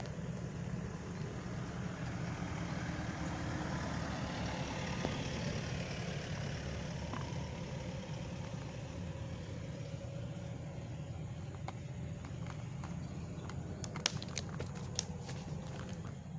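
A steady low rumble, with a few sharp clicks and knocks near the end.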